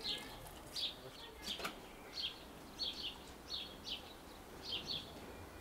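Small bird chirping again and again in short high notes, about one or two every half second, with a single light knock about a second and a half in.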